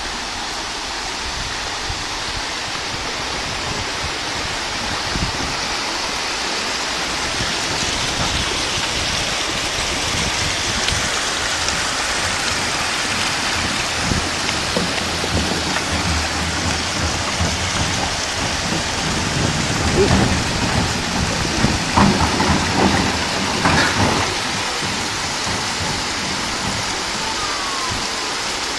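Heavy rain falling steadily on a street, with surface floodwater running across the road. A stretch of louder low rumbling and knocks comes about two thirds of the way through.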